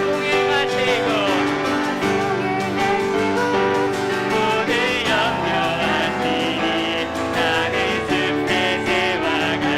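Worship praise team singing a hymn with piano accompaniment, voices held with vibrato over sustained chords.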